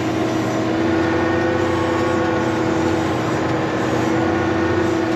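Kirovets K-742 tractor engine running steadily under load while pulling a cultivator, a constant drone with a steady hum.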